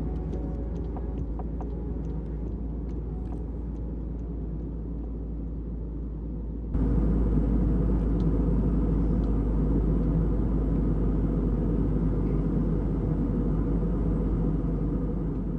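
Steady low rumble of a vehicle heard from inside while travelling, a few faint clicks in the first few seconds; about seven seconds in it cuts abruptly to a louder, fuller rumble.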